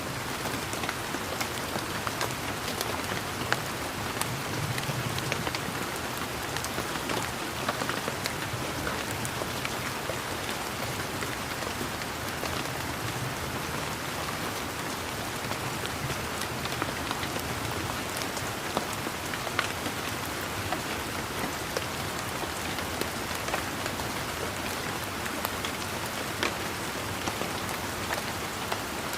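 Steady, gentle rain falling, with many separate drops ticking sharply against close surfaces over an even hiss.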